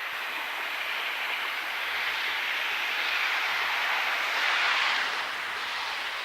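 A JNR DE10 diesel-hauled mixed train running, heard as a steady rushing noise that swells about four seconds in and then eases, mixed with strong wind on the microphone.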